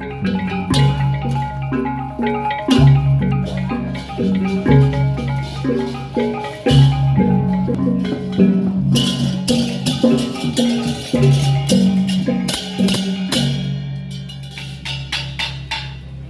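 Balinese gamelan playing: bronze metallophones striking busy interlocking notes over a deep gong-like stroke that comes back about every two seconds. The playing grows brighter and denser in the second half.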